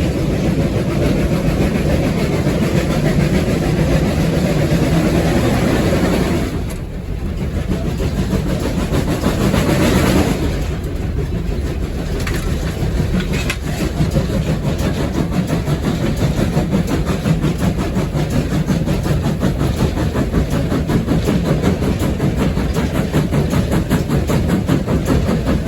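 Steam locomotive running, heard from inside its cab: a loud, steady rush of working noise that dips briefly about seven seconds in, then settles into a fast, even beat from about twelve seconds in.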